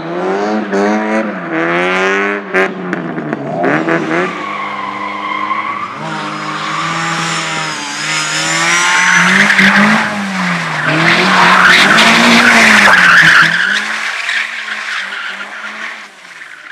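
Slalom competition car's engine revving up and down repeatedly through the course's turns, with tyres squealing and skidding; the skid noise is loudest from about eight to thirteen seconds in, then dies away as the engine settles.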